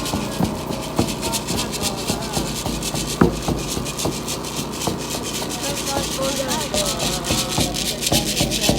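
Rapid, rhythmic rasping and shuffling strokes with occasional knocks, over a background of many voices.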